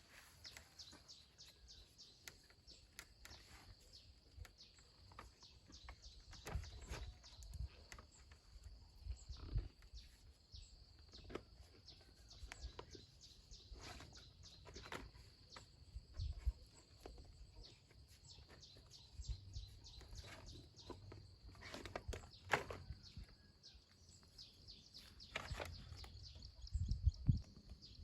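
Rural outdoor ambience: bird chirps over a steady high-pitched hum, broken by irregular knocks and rustles, the loudest near the end.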